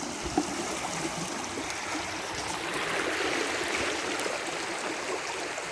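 Rain-swollen creek rushing steadily past at high water, with one short knock just after the start.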